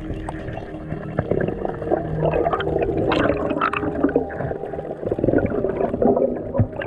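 Underwater water noise from a diving camera: gurgling, crackling water and bubbles, with steady background music underneath.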